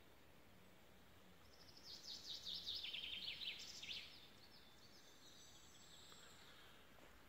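A songbird sings one song: a fast series of quick repeated high notes that falls in pitch, lasting about two and a half seconds from a little over a second in, over faint outdoor hiss.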